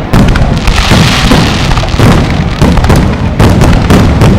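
Fireworks going off in quick succession: many overlapping bangs and booms, several a second, loud throughout.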